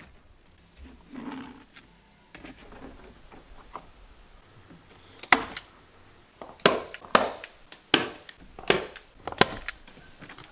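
A run of about seven sharp knocks from hand-tool blows on wood, spaced unevenly about half a second to a second apart, in the second half. The first half holds only faint handling sounds.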